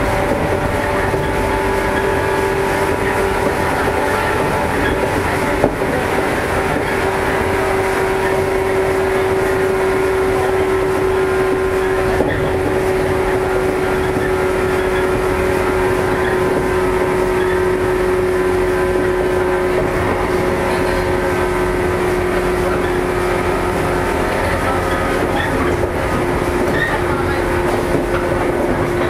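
Running sound of a JR East 115 series electric train under way: a constant rumble of wheels on rail with a steady whine from the traction motors and gears that sinks slowly in pitch as the train eases off speed. A couple of faint clicks from the track come through.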